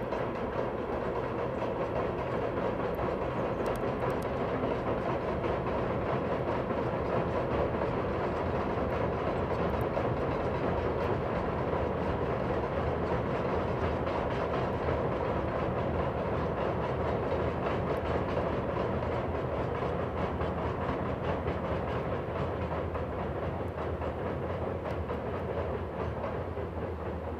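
Deki 500 electric locomotive hauling a freight train of hopper wagons past at speed: a steady noise of steel wheels running on the rails, easing slightly near the end.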